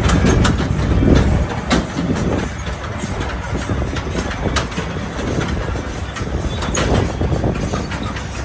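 Tractor running on the move, with a low rumble and frequent irregular knocks and rattles.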